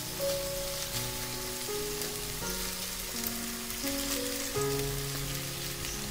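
Egg and vegetable masala sizzling in a hot nonstick wok as boiled noodles are tipped in from a mesh strainer. Slow background music of held notes plays over the sizzle.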